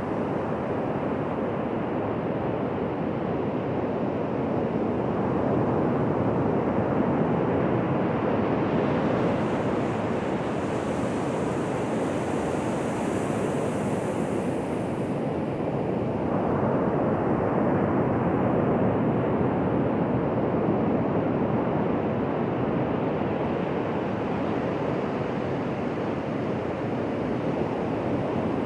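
Ocean surf washing onto a beach: a continuous rushing noise that slowly swells and eases, with a brief higher hiss near the middle.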